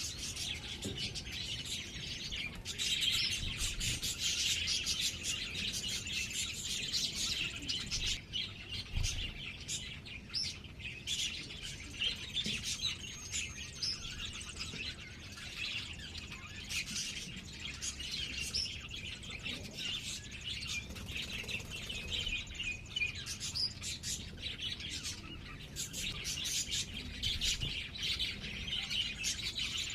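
Birds chirping in a dense, continuous stream of short, high chirps and calls, overlapping with little pause.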